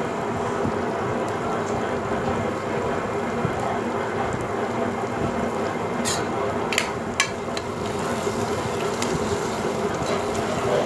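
Onion-tomato and spice masala frying in oil in a pressure cooker, a steady sizzle, as a slotted metal spatula stirs it. A few sharp clicks of the spatula against the pot come just past the middle.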